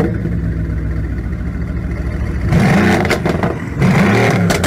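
A car engine running steadily, then revved in two quick rises and falls of pitch in the second half.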